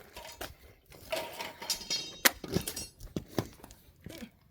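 Scattered knocks and metallic clinks from metal objects being handled, with a brief ringing metallic rattle about two seconds in.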